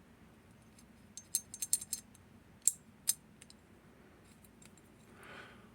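Small metal lock parts from a disassembled lever lock clicking and clinking together as they are handled: a quick run of light clicks about a second in, then a few single clicks.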